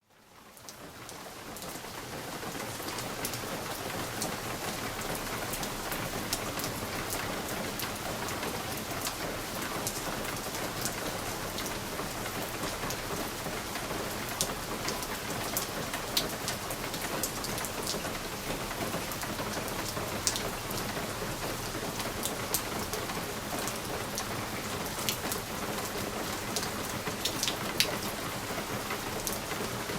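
Steady rain pattering on a window pane, with scattered sharp ticks of individual drops striking the glass. It fades in over the first couple of seconds.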